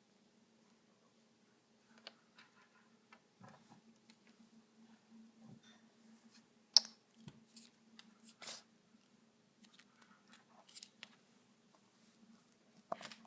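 Pet bird moving and pecking inside a shoe: scattered small clicks, scratches and rustles. The sharpest click comes about seven seconds in.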